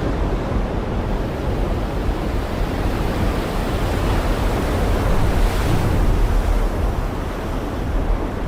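Heavy rain falling steadily as a dense wash of noise, with a deep low rumble beneath it; it swells a little louder about halfway through.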